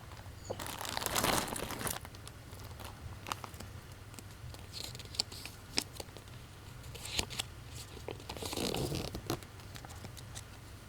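Crinkling and tearing of plastic wrapping, in two rustling bursts with scattered small clicks of handling between them.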